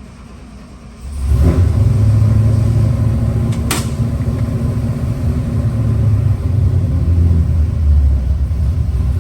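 446 cubic-inch 351 Windsor-based small-block Ford stroker V8 with multi-port fuel injection, on an engine dyno: about a second in it comes up hard to full power for a dyno pull toward 6,200 rpm, and it runs loud and sustained from there. A single sharp crack sounds a few seconds in.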